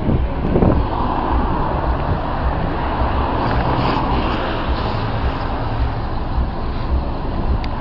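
Mercedes-Benz OF-1722M bus's diesel engine running steadily, a constant low rumble with a broad mid-range drone.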